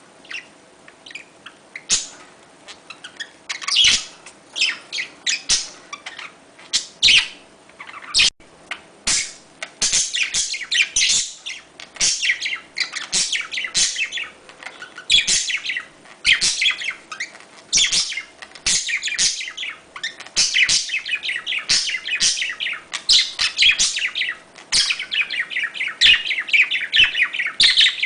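Budgerigars chirping and warbling in quick, high-pitched, overlapping calls. The calls are spaced out at first and become an almost continuous chatter from about ten seconds in.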